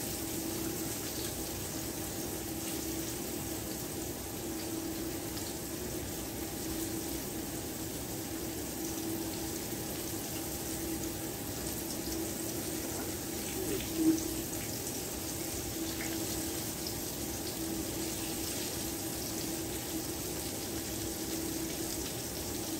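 Floured summer squash frying in oil in a cast-iron skillet: a steady sizzle with a low hum under it, and one short knock about fourteen seconds in.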